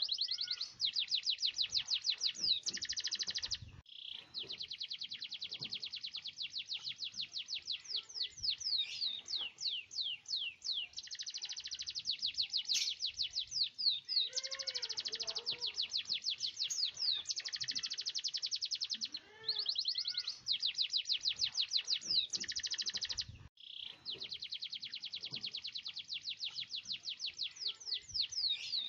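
Domestic canary singing long, fast rolling trills of rapidly repeated high notes, broken by a few brief pauses. Softer, lower chirps come in about halfway through.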